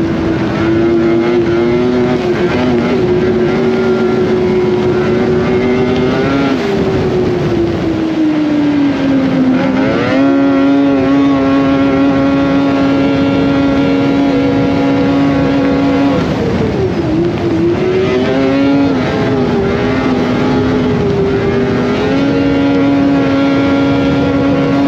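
Polaris Indy Cross Country 600 snowmobile's two-stroke engine running under way, its note holding steady, sagging as the throttle eases and climbing back, twice.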